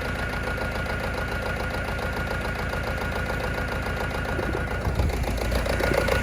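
Ford Fiesta Mk6 1.4 diesel four-cylinder engine running lumpy and uneven in limp mode, getting a little louder about five seconds in. The roughness is a misfire on cylinder 4 from a faulty fuel injector.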